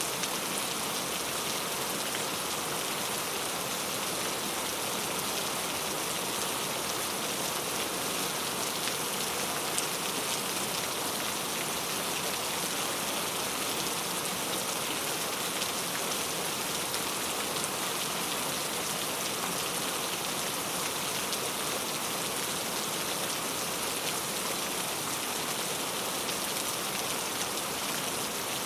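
Heavy rain falling steadily, a dense even hiss with the patter of individual drops.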